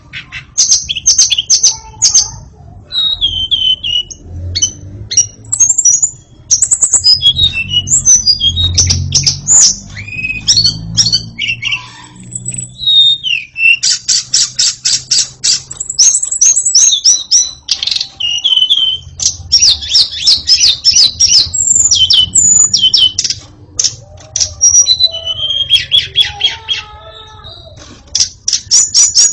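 White-rumped shama (murai batu) singing a loud, varied song of whistled phrases and fast rattling trills, broken by short pauses.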